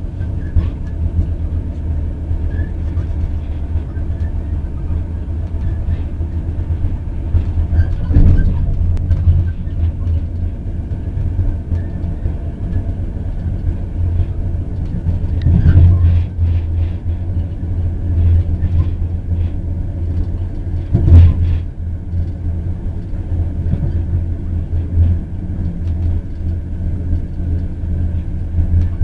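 A train running, heard from on board: a steady low rumble and hum, with a few louder knocks, the loudest about two-thirds of the way through.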